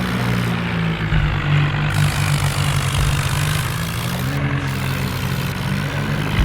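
Tractor engine running steadily and loudly, with a brief rise in pitch about four and a half seconds in.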